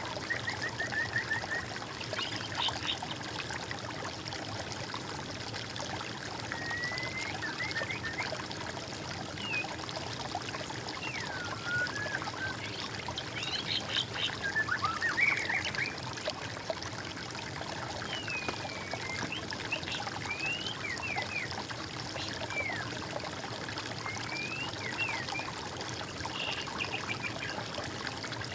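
Water trickling and flowing steadily, with birds singing over it in short whistled phrases and chirps that slide up and down in pitch.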